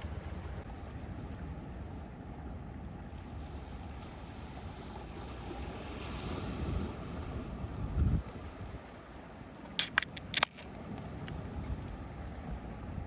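Steady low rumble of wind and ocean surf. A quick cluster of about four sharp clicks comes about ten seconds in.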